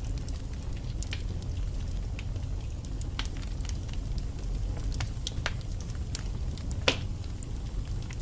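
Wood fire burning in a fireplace: a steady low rumble of flames with scattered sharp crackles and pops from the logs, one louder pop about seven seconds in.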